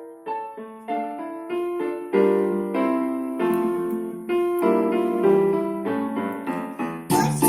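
Piano introduction to a children's song: melody notes and chords, each struck and fading. Near the end the music turns louder and fuller.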